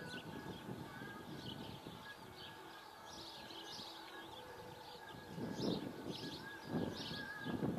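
Small birds chirping in quick repeated calls, with a few irregular low rumbling surges of noise in the last couple of seconds.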